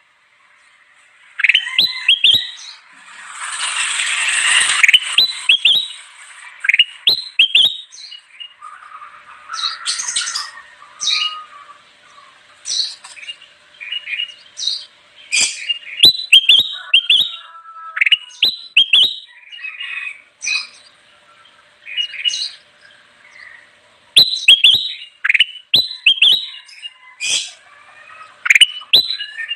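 Kutilang emas bulbul singing: quick runs of short, sharp chirps and whistled notes, repeated in bursts, with a harsh rasping burst about three seconds in.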